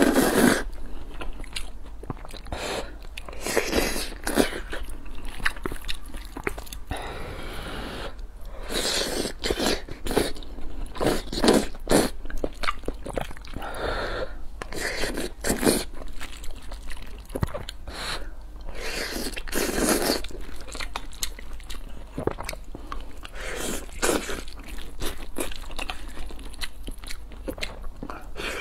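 Close-miked eating: repeated bites and chewing of a soft rice dish topped with braised eggplant and tomato scrambled egg, coming in irregular bursts.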